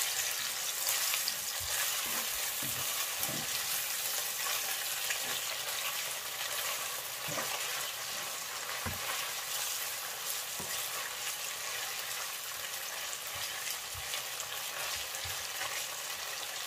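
Onions and tomato paste sizzling in palm oil in a frying pan, with a steady hiss, stirred with a wooden spatula that knocks and scrapes against the pan now and then.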